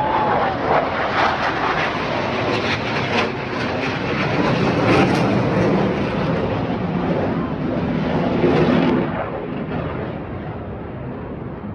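Jet noise of the Black Eagles' T-50B aerobatic jets flying past, a loud rushing sound with some crackle that fades away about nine seconds in.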